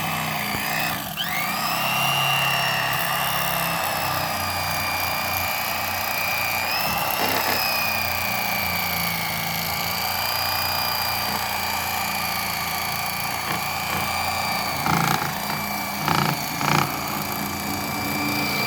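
Electric fillet knife running with a steady high motor whine as it cuts through a catfish. The pitch climbs in the first couple of seconds, then sags and recovers as the blades meet resistance. A few short knocks come near the end.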